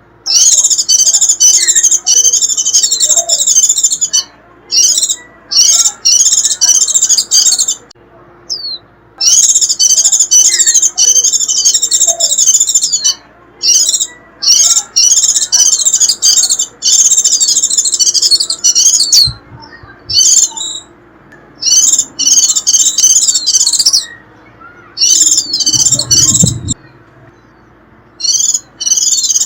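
White-eye giving its shrill chattering 'rít' call: rapid, high-pitched twittering in bursts of one to four seconds separated by short pauses. This is the call used to lure wild white-eyes.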